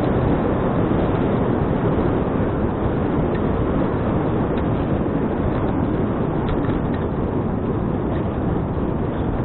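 Steady wind rush on an action camera's microphone while a bicycle is ridden, with a few faint ticks.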